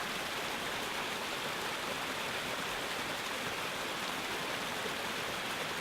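Steady rushing of water, an even hiss without breaks or changes.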